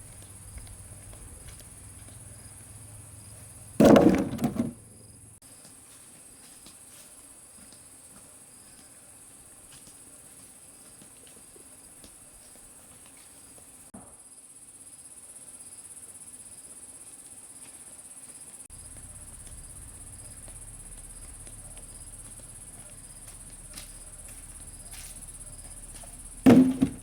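Insects, such as crickets, chirring steadily in a high, even drone. Two short loud thumps cut through it, one about four seconds in and one near the end.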